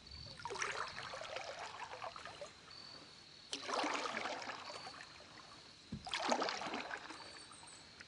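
Kayak paddle strokes: the blade dips and pulls through the water with splashing and dripping, three strokes about two and a half seconds apart.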